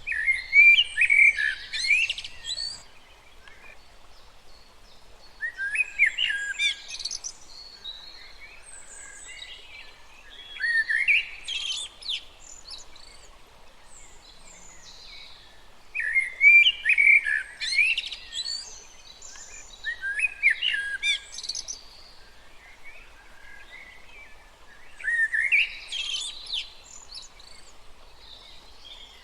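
A songbird sings a fast, intricate phrase about two seconds long, repeated six times at roughly five-second intervals, over the faint steady rush of a small stream.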